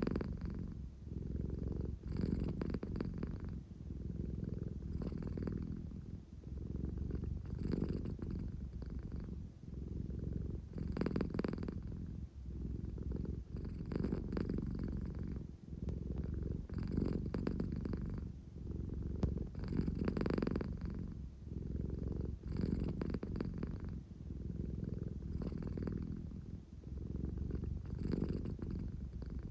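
American Shorthair cat purring steadily, a low rumble that swells and eases with each breath about every three seconds. It is the purr she gives when sleepy and wanting affection.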